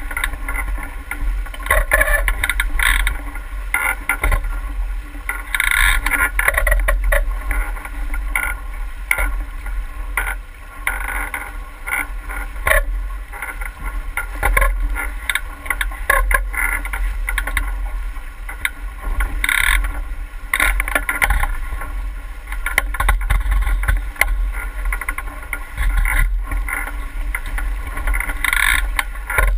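Water rushing and splashing against a sailing boat's hull in uneven surges, over a steady low rumble.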